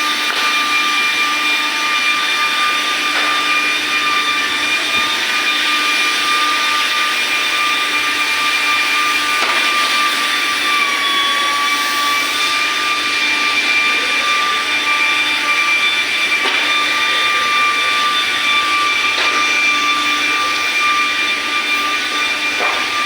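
A machine's electric motor running continuously with a steady high whine over a rushing hiss; the pitch sags slightly about ten seconds in, then holds.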